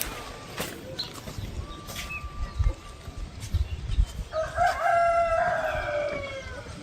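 A rooster crowing once, a long drawn-out call starting about four seconds in and dropping in pitch at its end. A few dull low thumps come before it.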